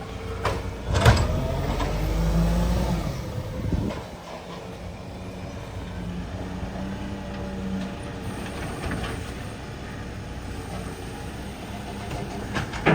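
Volvo garbage truck's diesel engine running, louder and deeper for a few seconds near the start, then settling to a steady idle. Sharp knocks sound about half a second and a second in, and a clank comes near the end.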